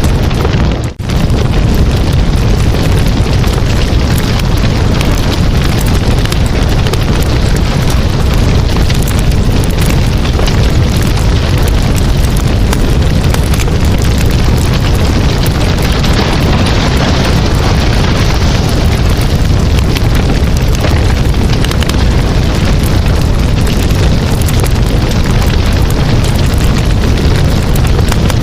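Campfire burning with dense, continuous crackling and popping over a low rumble; the sound briefly drops out about a second in.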